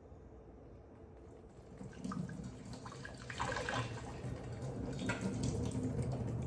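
Cooking water from a pot of ramen noodles poured out into a sink, starting about two seconds in and getting louder toward the end.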